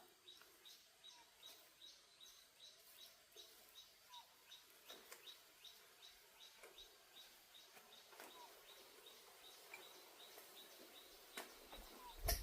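Faint outdoor ambience of wildlife chirping: a short high chirp repeating steadily about three times a second, with a lower rising call every few seconds. A few soft knocks come near the end.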